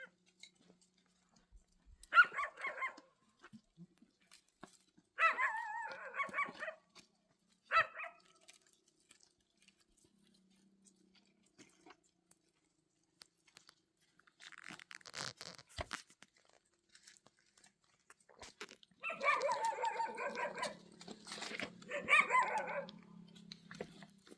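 A dog calling in short pitched bouts, a few in the first eight seconds and a longer run of calls near the end. A brief rustling, crunching noise comes a little past the middle.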